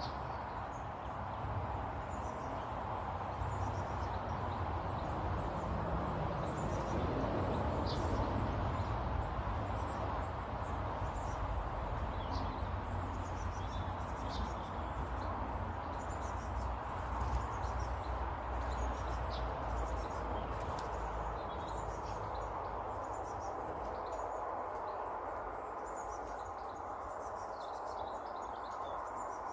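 Small birds chirping and calling, many short high notes scattered throughout, over a steady low rumble of background noise.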